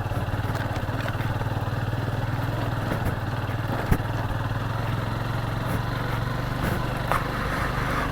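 Motorcycle engine running steadily while riding on a rough off-road track, with one short knock about four seconds in.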